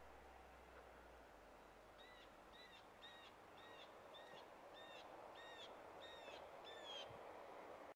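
A small bird calling faintly: a series of about nine short, evenly spaced call notes, roughly two-thirds of a second apart, starting about two seconds in, over a steady outdoor hiss.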